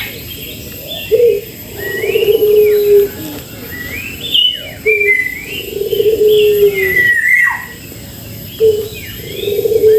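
A dove cooing over and over, each phrase a short coo followed by a longer, slightly falling coo, while another bird calls with gliding whistles and chirps higher up.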